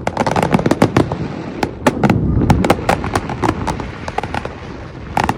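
Aerial fireworks going off: a dense, irregular run of sharp bangs and crackles over a steady low rumble, thinning out about four seconds in.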